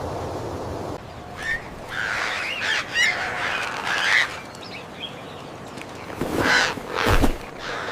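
Bird calls: after about a second of steady rushing noise, a run of short chirps and squawks, then two louder, harsher squawks near the end.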